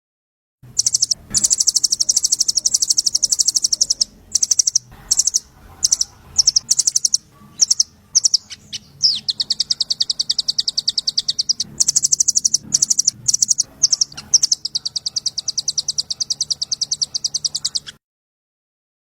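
A small songbird's high, very rapid chattering trill, delivered in long runs broken by short pauses, over a faint low hum. It starts abruptly just under a second in and cuts off suddenly about a second before the end, as an edited training recording does.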